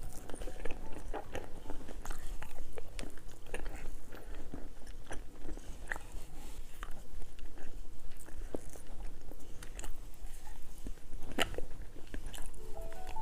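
Close-miked chewing and biting of candy: many small crunches and wet mouth clicks, with one sharper crunch about eleven seconds in. Music comes in near the end.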